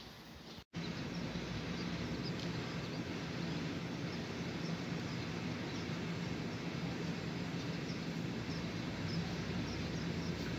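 An electric multiple unit train approaching at a station with a steady low hum, and small high chirps, like birds, over it. The sound drops out for an instant less than a second in, then the hum goes on at an even level.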